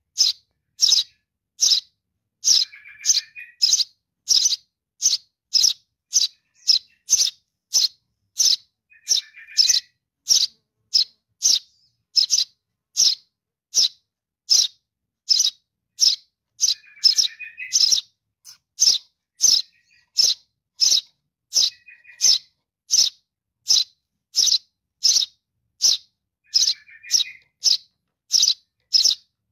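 Baby Eurasian tree sparrow begging for its parent: short high chirps repeated evenly about two a second, with a lower, rougher chirp breaking in every few seconds.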